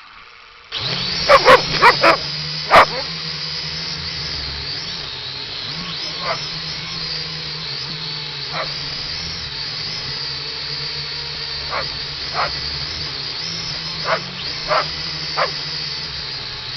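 Quadcopter drone's propellers whirring steadily, starting abruptly under a second in, the pitch wavering slightly. A dog barks at it: four or five quick barks early, then single barks every few seconds.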